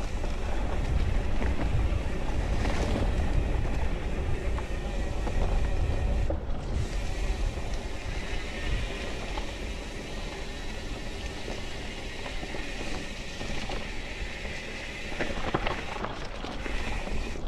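Mountain bike rolling down a dirt singletrack: tyre noise and scattered rattles and clicks over bumps, under a steady rumble of wind on the microphone.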